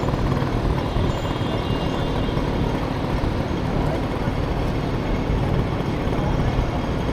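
Honda Motocompo scooter with a swapped-in Honda Dio engine riding in city traffic: steady engine and road noise under heavy wind rumble on the microphone.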